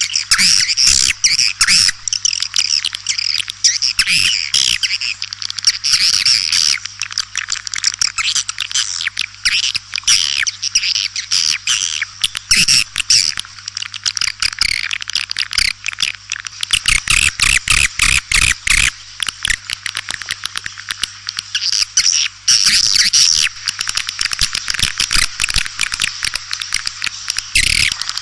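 A dense chorus of swiftlets twittering without pause: rapid overlapping chirps and clicking trills. This is the kind of swiftlet call recording played to lure the birds into nesting houses.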